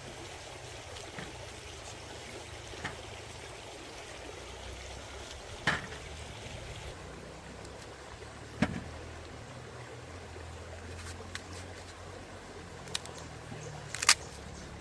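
Stream water running steadily, with a few scattered sharp clicks and knocks, the loudest near the end.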